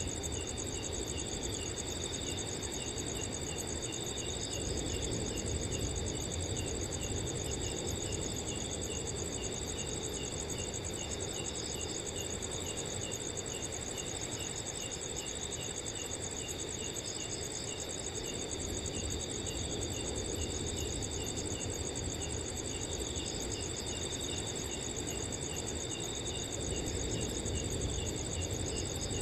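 Several crickets chirping at once: a fast, steady high trill, a regular chirp about twice a second, and groups of pulsed chirps coming and going, over a low, steady wind noise.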